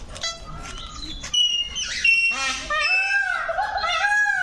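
Parrots calling: a run of loud, repeated squawks that arch up and down in pitch, starting about a second in.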